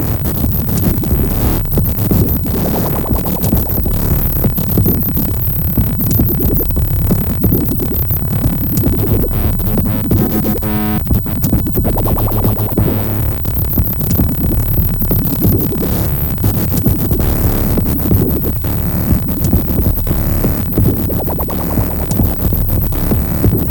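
Electronic music played on hardware synthesizers and a drum sequencer: a dense, steady bass bed with rapid percussive hits throughout. About ten seconds in there is a brief stuttering, buzzy passage.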